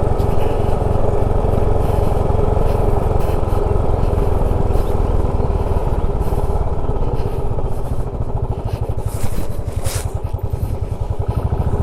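Motorcycle engine running steadily while riding, with a few short clattering knocks near the end.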